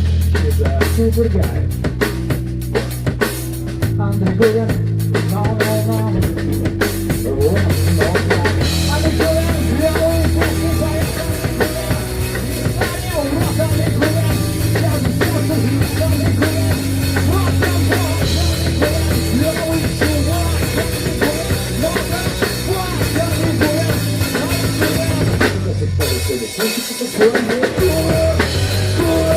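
Instrumental passage of a rock song: drum kit with kick, snare and rimshots over a steady bass line, the drums and bass briefly dropping out about 26 seconds in before the band comes back.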